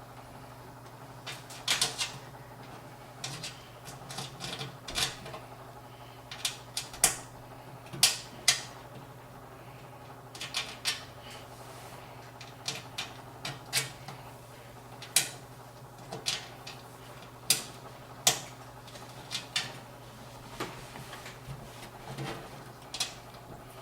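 Irregular small metallic clicks and taps as motherboard standoffs are handled and screwed into the steel motherboard tray of a PC case, over a low steady hum.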